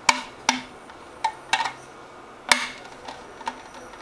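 Hard plastic parts of a Keurig K-Supreme Plus coffee maker clicking and knocking as they are fitted into place: about six sharp clicks, the loudest about two and a half seconds in.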